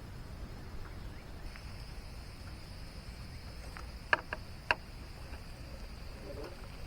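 Faint steady drone of insects over a low rumble, with a few sharp clicks or taps a little past halfway.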